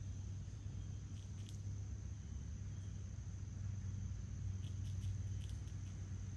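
Backyard ambience: a steady high insect drone over a low steady hum, with a few short high clicks about a second in and again near the end.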